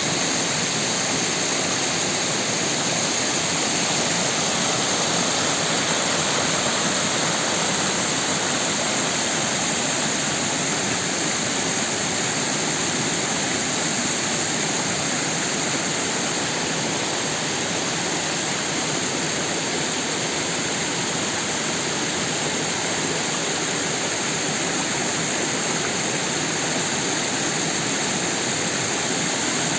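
Rain-swollen creek rushing steadily, with water pouring over rocks in a continuous, unbroken flow.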